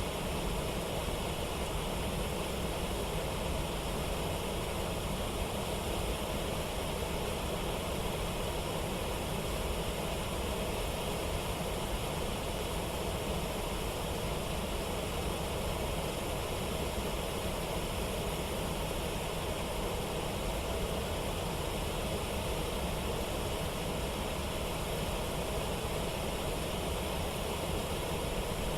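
Steady, unbroken rush of a waterfall and river rapids.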